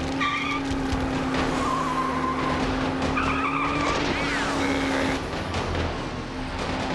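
Cartoon race-car sound effects: a steady engine hum with several short, wavering tyre squeals through the first five seconds.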